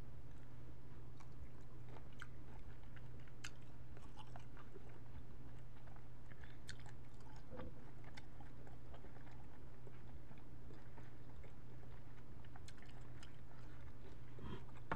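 Close-miked eating: cooked shrimp being chewed and bitten, with scattered small wet clicks and crackles, along with shrimp shells being handled and peeled. A steady low hum lies underneath.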